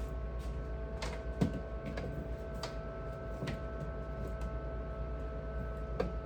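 Scattered light clicks and knocks, about six in all, from objects being handled, over a steady electrical hum.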